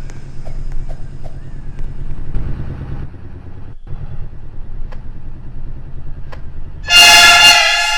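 MRT Line 3 train's steady low rumble and hum, with a short, loud warning tone sounding about seven seconds in.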